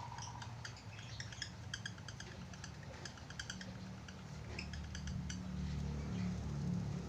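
Pet budgerigar making quick runs of short, sharp clicking chirps. A low hum comes in about five seconds in.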